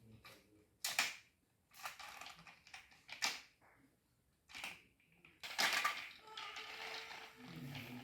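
Toy train and track pieces being handled: scattered sharp clicks and knocks, with a longer clattering rattle about five and a half seconds in.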